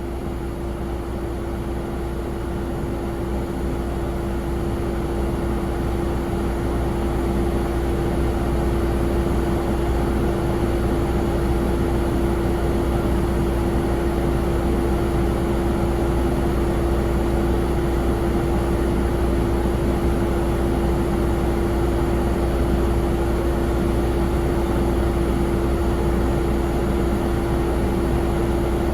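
Boeing 777-300's jet engines running steadily: a constant whine over a low rumble, growing slightly louder over the first several seconds and then holding level.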